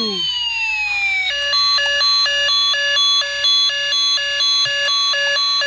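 Electronic siren sound effect from a battery-powered remote-control toy car just switched on: a falling wail dies away, then from about a second in a rapid electronic warbling alarm repeats at about two cycles a second.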